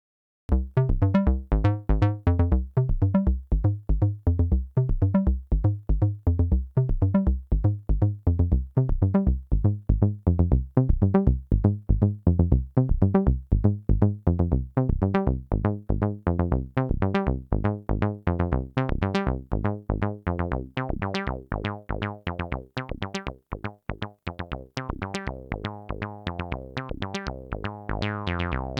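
Roland SH-09 monophonic analog synthesizer playing a fast sequenced line of short, plucked notes, about four a second, starting about half a second in. Over the second half the notes get softer and run together more.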